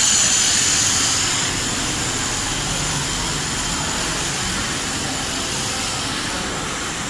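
Steady engine noise with a high, thin whine that fades away over the first second or two.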